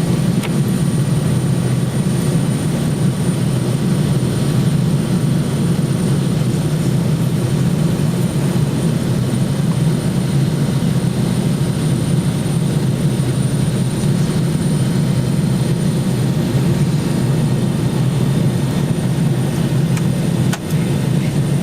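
Steady roar inside a jet airliner's cabin during its descent: engine and airflow noise, strongest in the low range, with a thin steady high whine above it and one small click near the end.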